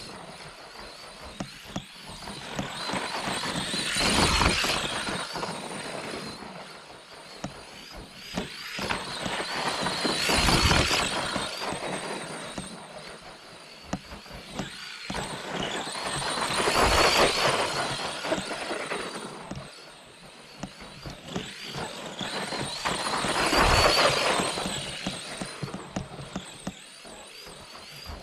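ARRMA Granite 4x2 Boost RC monster truck with a brushed Mega 550 motor, its motor and gear whine and tyre noise swelling and fading four times, about every six and a half seconds.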